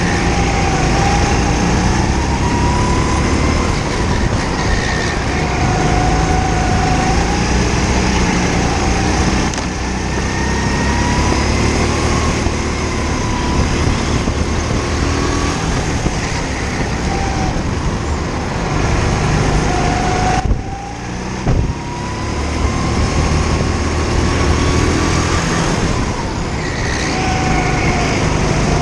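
Indoor kart engine heard onboard through a lap, its pitch rising on the straights and falling into the corners again and again. About two-thirds of the way in, the engine goes briefly quiet as the driver comes off the throttle, then picks up again.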